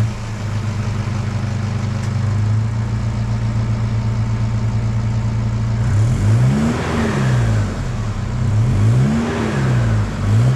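4WD engine idling through its existing 3-inch exhaust with muffler, then revved twice, each rev rising and falling back to idle in the second half.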